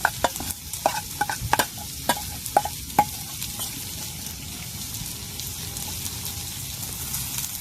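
Rice and beans for a tutu frying and sizzling in a pan while being stirred, a spoon clinking and scraping against the pan in the first three seconds, then a steady sizzle.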